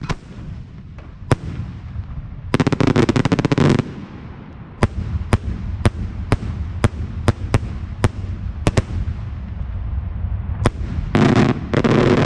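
Fireworks going off: a single bang about a second in, a dense rapid crackle around the third second, then a string of separate bangs about two a second, and another dense crackle near the end, all over a continuous low background noise.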